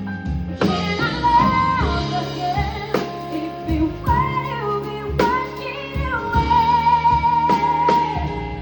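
Live band playing a slow jazz-pop song: bass and drums under a lead melody line that glides between notes and holds one long wavering note in the second half.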